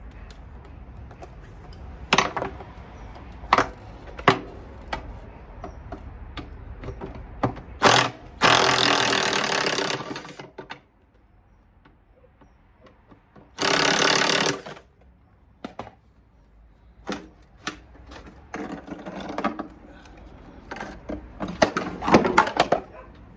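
Metal knocks and clanks from a washing machine being taken apart, broken by two loud bursts of a power tool, the first about two seconds long, the second about a second. More rattling and clattering follows near the end.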